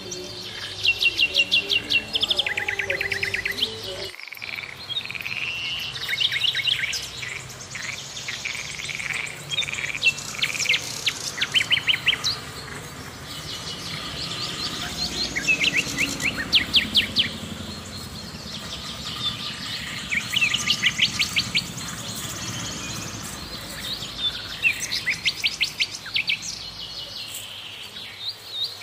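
Birds singing and calling, with short bursts of rapid trilled notes coming every second or two throughout.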